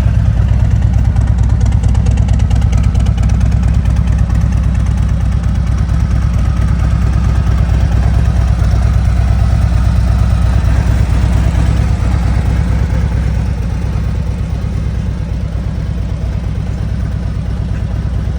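Harley-Davidson Street Glide Special's Milwaukee-Eight V-twin running steadily through an aftermarket exhaust, with a fast, even pulse, growing a little quieter near the end.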